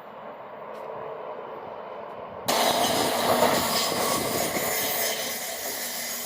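A train running through on the rails, its noise swelling gently and then jumping suddenly much louder about two and a half seconds in, before easing off a little.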